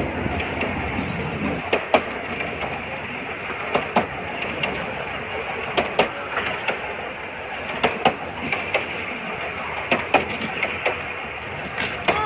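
Train carriage running along the line: a steady rumble of wheels on rail, with sharp clicks of the wheels over the rail joints coming in pairs about every two seconds.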